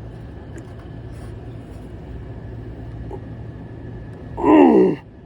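Steady low hum of the running rooftop HVAC unit. About four and a half seconds in, a man gives a loud drawn-out vocal exclamation that falls steeply in pitch.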